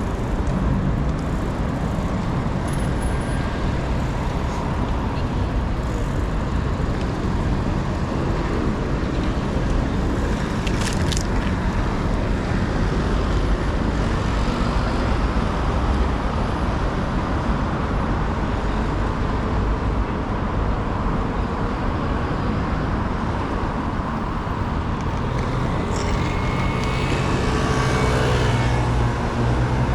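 City street traffic noise heard from a moving bicycle: a steady wash of passing cars and road noise. A louder vehicle engine passes close near the end.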